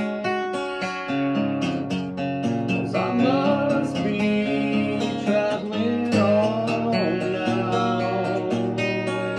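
Acoustic guitar strummed and picked in a steady chord progression, with a melody line that slides in pitch over it around three and six seconds in.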